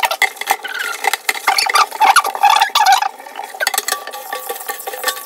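Irregular scrubbing, scraping and clattering of plastic and glass refrigerator shelves and parts being handled and washed with a sponge.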